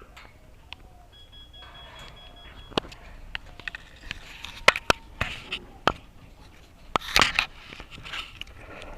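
Budgerigars chirping and chattering while feeding, with scattered sharp clicks and a louder burst of chatter about seven seconds in.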